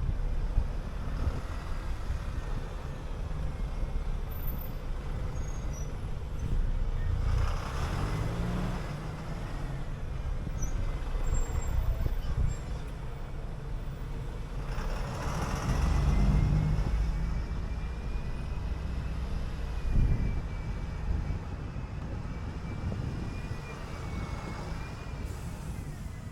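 City bus running: its engine builds up twice as the bus accelerates, with a thin high whine rising and falling through the second half and a single sharp knock about twenty seconds in.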